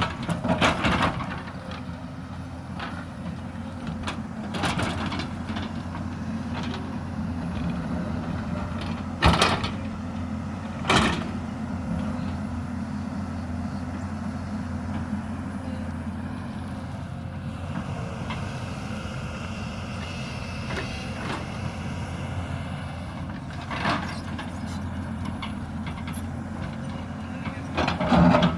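Hyundai 220 crawler excavator's diesel engine running steadily under digging load, with about half a dozen sharp knocks as the bucket strikes earth and rock cutting into the hillside. A faint high whine rises over the engine for a few seconds past the middle.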